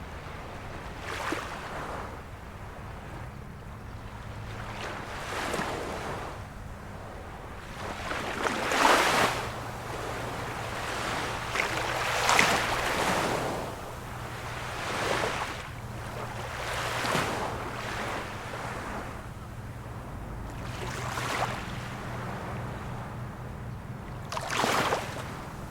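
Small waves of a calm sea washing onto the shore, each swelling and falling away every few seconds, about eight in all, with the strongest surges about a third and halfway through.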